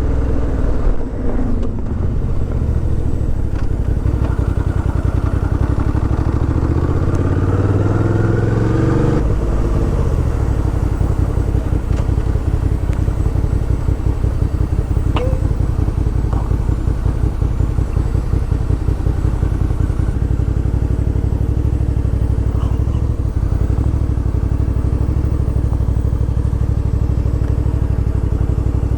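Suzuki V-Strom 650 XT's 645 cc V-twin engine on the move: it climbs in revs for a few seconds, drops sharply about nine seconds in, then runs at low, even revs with a steady pulse.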